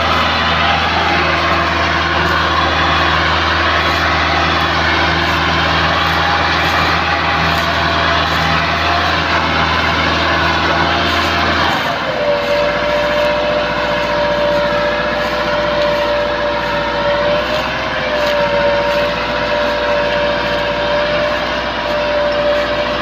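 Massey Ferguson 385 diesel tractor engine running steadily under load while pulling a heavily loaded trolley. About twelve seconds in the deep engine note drops away abruptly and a steady high whine takes over.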